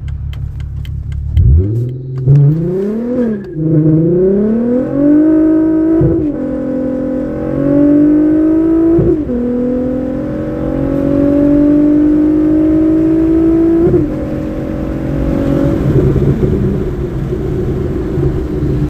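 2.8-litre naturally aspirated VR6 engine of a Mk4 VW GTI on a 3-inch exhaust with a Dynomax resonator and Borla XR1 muffler, revved and then accelerating hard through the gears. Its pitch climbs in each gear and drops sharply at the upshifts about 6, 9 and 14 seconds in, before the driver lets off near the end.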